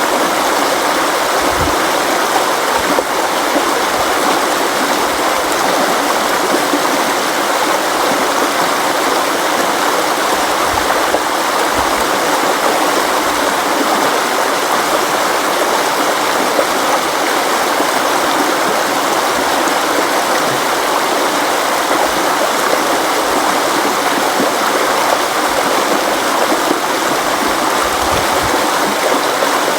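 River water flowing and rushing over rocks, a steady unbroken rush with no pauses.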